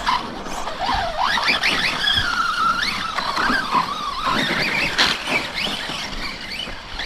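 Brushless electric RC trucks revving, their motor whine rising and falling again and again as they accelerate and slow, over the noise of tyres on dirt.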